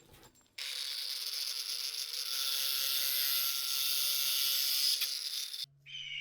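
A power tool's motor spins up about half a second in and runs steadily with a loud high hiss for about five seconds, then cuts off suddenly. Near the end a second motor starts with a low steady hum and a high whine.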